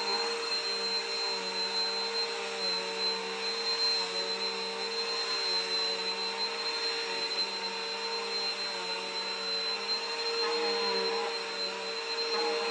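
Vacuum cleaner running steadily, a high whine over the motor's hum, its pitch wavering slightly now and then.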